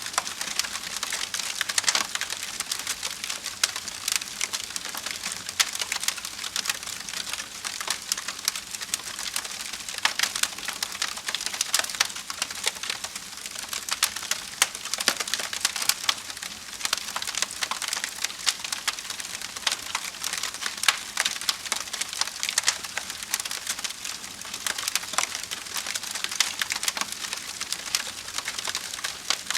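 Wood fire burning in a fireplace, crackling steadily with dense small pops and snaps over a soft hiss, and now and then a louder crack.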